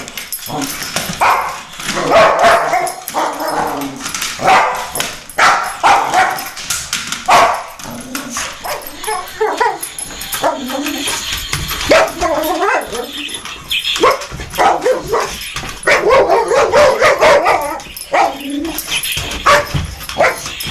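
Dog barking over and over, with yips and whines between the barks.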